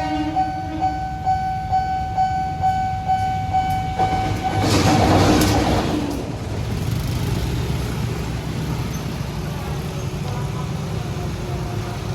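Railway level-crossing warning bell ringing in quick, even pulses, about two to three a second, stopping about 4 s in. A loud rushing noise follows for about a second and a half, then a steady low rumble.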